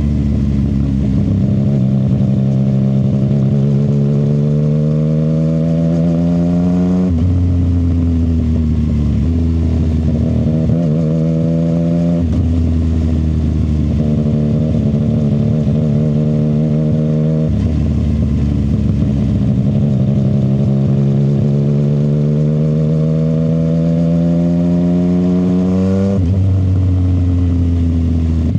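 CFMoto 675 SR-R's inline three-cylinder engine running through an aftermarket short exhaust while riding. The pitch climbs slowly as the revs build, then falls sharply about four times as the revs drop back.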